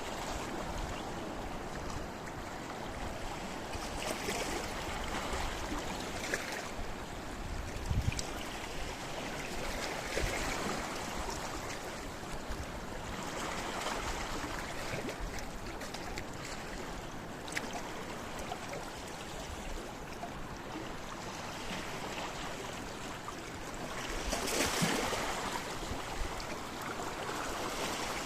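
Sea waves washing in over a rocky shore: a continuous rushing wash of water among the rocks that swells several times, loudest near the end, with a few sharp splashes.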